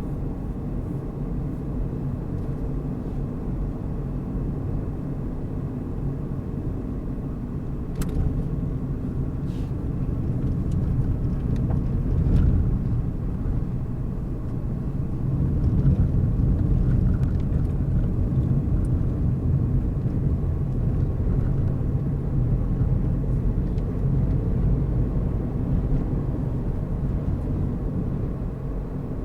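A car driving along a road: a steady low rumble of engine and tyre noise that grows a little louder about halfway through, with a couple of faint clicks about eight and ten seconds in.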